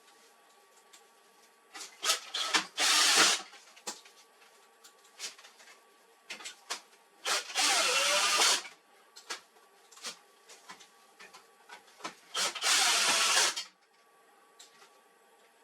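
Electric screwdriver running in three short bursts of about a second each, driving or backing out screws, with small clicks and knocks of parts being handled in between.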